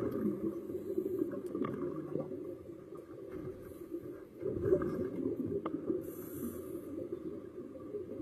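Underwater recording of a scuba diver breathing through a regulator: a muffled bubbling rumble from the exhaled bubbles, with two short hisses of inhalation.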